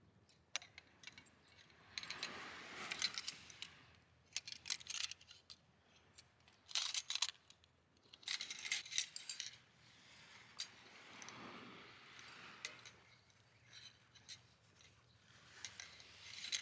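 Small metal camping gear being handled: light clinks, rattles and scrapes in irregular clusters, with a few sharper clicks.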